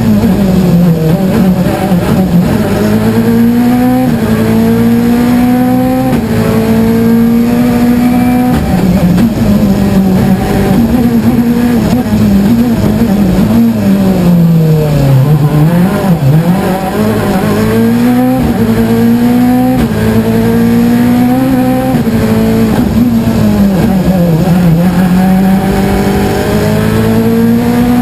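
Rally car engine heard from inside the cockpit, driven hard along a stage. The revs climb again and again, broken by quick gear changes, and drop deeply about halfway through as the car slows for a bend before pulling hard again.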